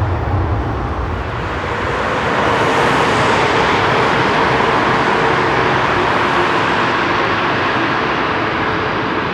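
Four Rolls-Royce Trent 500 jet engines of an Airbus A340-600 running, a steady rushing noise with a faint whine that grows louder about two seconds in and holds.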